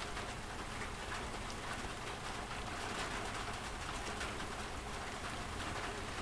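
Steady heavy rain on a Class C RV motorhome, heard from inside: a dense, even patter of drops.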